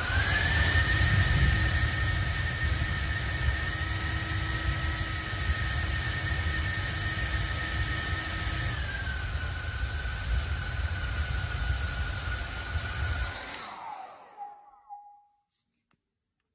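Hair dryer running: a steady rush of air with a thin motor whine. About nine seconds in, the whine steps down to a lower pitch. Near the end the dryer is switched off and winds down, its whine sliding downward as it fades.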